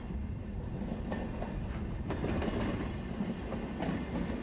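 SBB Re 460 electric locomotive and its passenger coaches rolling past close by, wheels clattering over the rail joints. The rolling noise grows louder from about two seconds in as the locomotive draws level, with a few sharp clacks.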